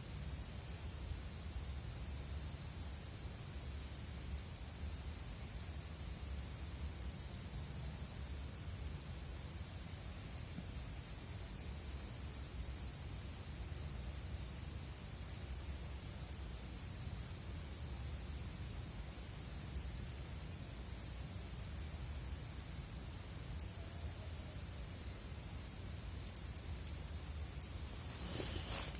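Crickets and other night insects calling: a steady, high, pulsing trill, with a second insect chirping in short groups every second or two. A brief rustle near the end.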